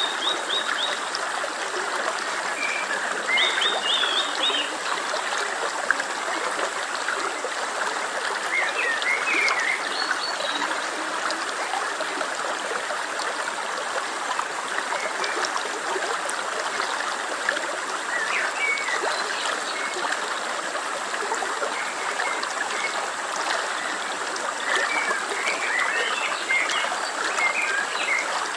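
Steady rush of a flowing stream, with scattered short high chirps over it that come more often near the end.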